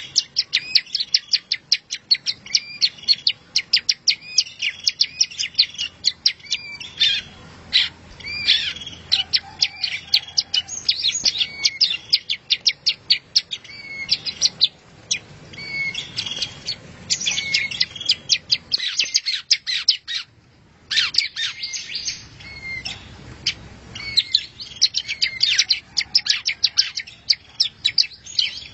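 Songbird singing a fast, continuous run of sharp chirps and short trilled phrases, with a brief pause about two-thirds of the way through: a masteran birdsong recording of the kind used to tutor caged songbirds.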